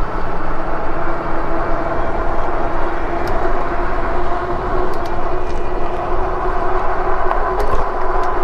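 Lectric XP e-bike under way: wind buffeting the microphone and tyre rumble, with a steady whine from its hub motor.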